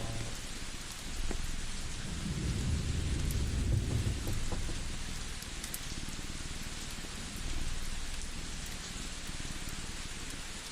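Steady rain hiss with a low rumble of distant thunder that swells about two seconds in and dies away by about five seconds. A few faint crackles of a wood fire sound over it.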